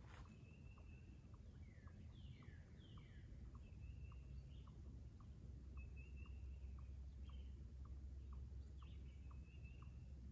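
Songbirds calling at the water's edge, short falling whistles and held notes, over a faint low wind rumble, with a faint steady ticking about twice a second throughout.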